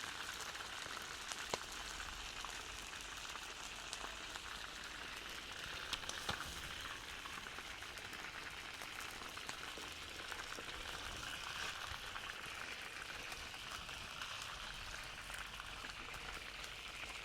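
Food frying in a cooking pot: a steady sizzle with scattered small pops.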